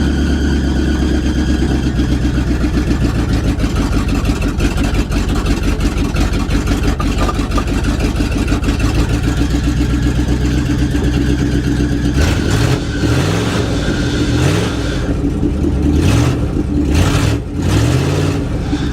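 A 1973 Dodge W200 pickup's engine running cold after a cold start, idling steadily with a high-pitched squeal over it. About two-thirds of the way through it is revved in several quick blips.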